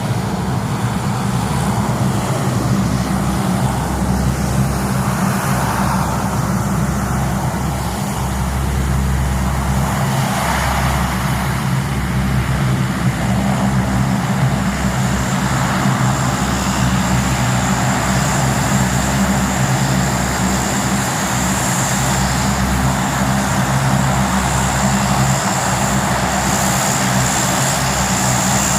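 Aircraft engines running steadily, a continuous low drone with a high whine that comes in about halfway through.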